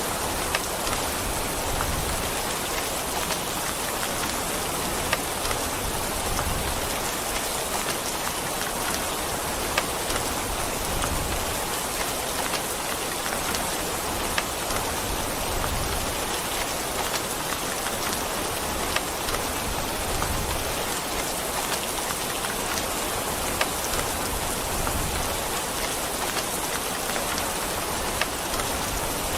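Steady, dense rain falling on a hard surface, with scattered sharper ticks of individual drops.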